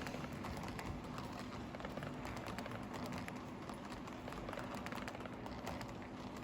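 HO-scale model train running along the layout track: a dense patter of small clicks from the wheels over the rails and joints, over a steady low hum.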